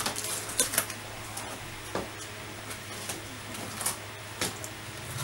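Scattered clicks, taps and short rustles of the laptop box and its packaging being handled, over a steady low hum.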